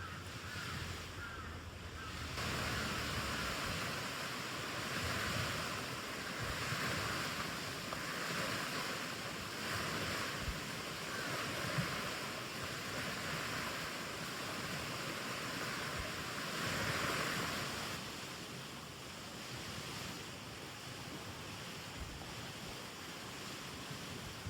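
Wind rushing through the forest trees in slow gusts that swell and fade, easing off near the end, with a few faint ticks.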